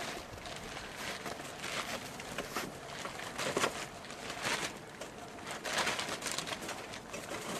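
Puppies scuffling and running about in play, an irregular rustling and scraping with no barking.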